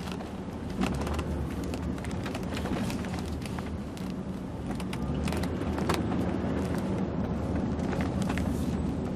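A vehicle engine running steadily, with scattered clicks and knocks over it.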